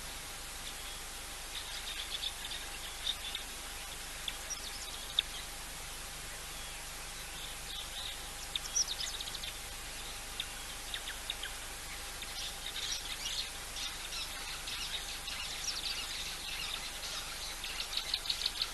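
Small birds chirping and calling in short, scattered bursts over a steady background hiss, the chirps growing busier in the second half. A faint steady hum runs underneath.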